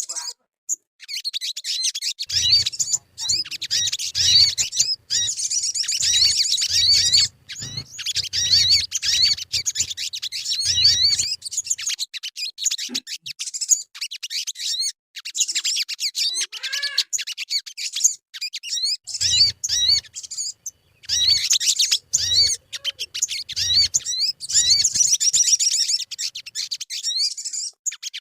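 Sogon bird calling: fast, high-pitched chirping and twittering, a lure recording for getting caged birds to sing. The calls break off briefly several times.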